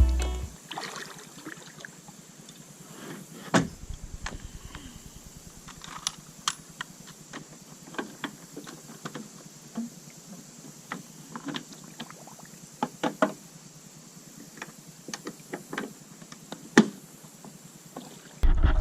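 Small boat on the water: scattered light splashes and drips with irregular knocks against the hull, and a sharper knock about three and a half seconds in and again near the end.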